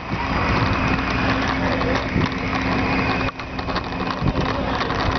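A motor vehicle engine running steadily amid dense road and wind noise, with a brief dip in loudness a little over three seconds in.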